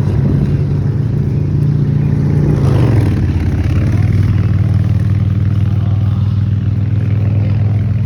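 A loud, low engine drone that runs steadily, its pitch dropping a little about three seconds in.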